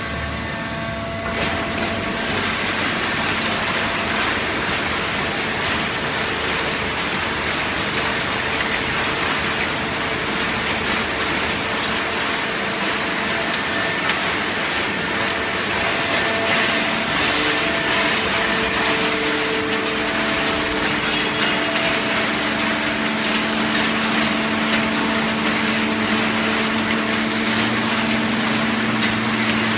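Hydraulic waste baling press running: steady mechanical noise with a motor and pump hum over it, the hum tones shifting partway through as the machine works.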